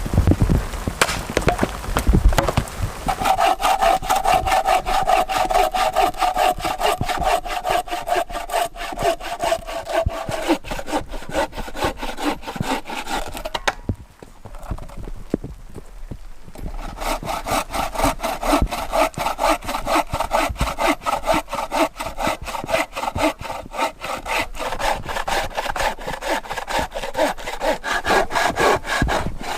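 Hand saw cutting through wood in quick, even strokes, with the blade ringing. The strokes pause for about three seconds midway, then start again.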